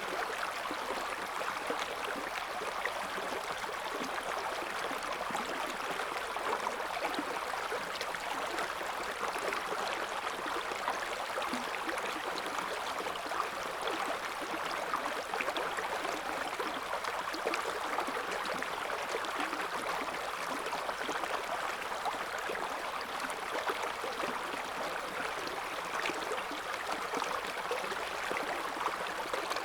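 River water flowing over stones with a steady rushing babble, full of fine splashy detail.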